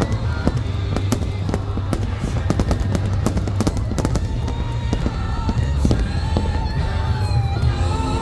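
Fireworks going off in a rapid, continuous string of bangs and crackles over a steady low rumble, with music playing underneath.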